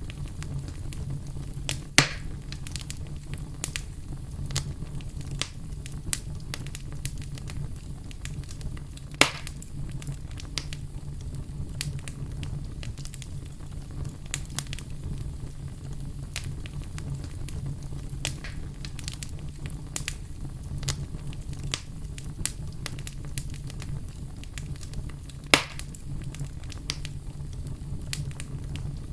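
A fire crackling steadily with a dense patter of small snaps over a low steady hum, and three sharp, louder pops, one about 2 seconds in, one about 9 seconds in and one near the end.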